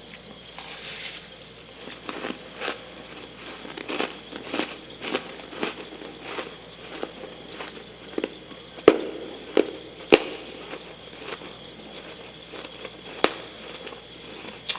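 Chewing a mouthful of freezer frost close to the microphone: a run of crisp crunches and crackles, roughly two a second, with a few sharper cracks near the middle.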